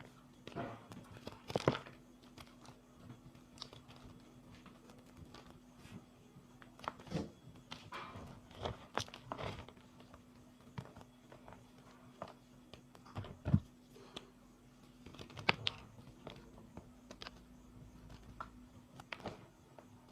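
Blocks of reformed gym chalk being crushed and crumbled by hand: irregular dry crunches and crackles, with sharper cracks about 2, 13 and 15 seconds in.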